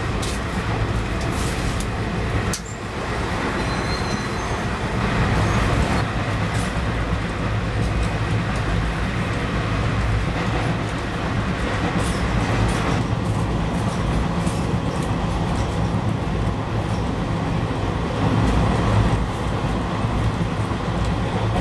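Steady rumble of a passenger coach running at speed, heard from inside at the window, with a few light clicks from the wheels, while freight trains of covered wagons pass close by on the next track.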